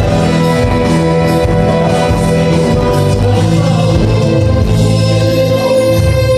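A live band playing a song with singing over it. A long held note runs through the second half.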